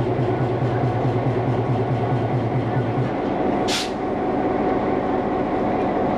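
Steady running noise of a passenger train in motion, heard from aboard. A low pulsing hum stops about halfway through, and a short hiss comes soon after.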